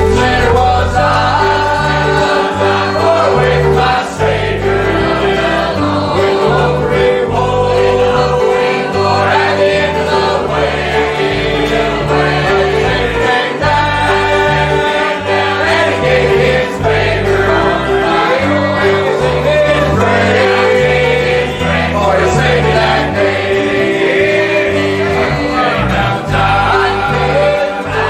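Gospel music: a choir singing over instrumental accompaniment with a moving bass line.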